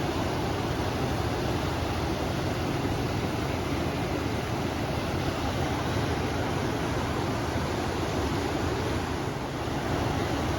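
River water flowing and wind blowing together, a steady rushing noise with a deep low rumble, dipping slightly for a moment about nine seconds in.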